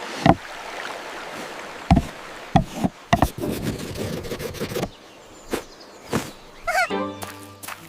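A string of irregular wooden knocks and thuds over a light background hiss, with a short warbling chirp shortly before the end.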